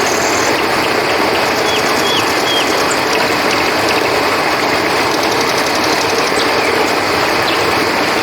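Steady rush of flowing river water, with crickets trilling in fast pulsing runs and short high chirps now and then over it.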